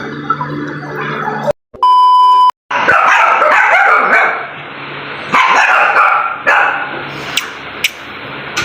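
A dog barking in repeated bursts, after a single long steady beep about two seconds in.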